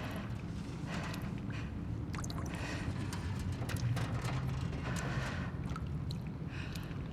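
Abandoned-building ambience: a steady low rumble with scattered faint clicks, drips and short rustling noises.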